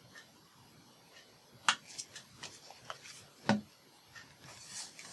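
Paper being handled on a craft table: soft rustling with two sharp taps about two seconds apart and a few lighter ticks, as a glued paper envelope is pressed and handled.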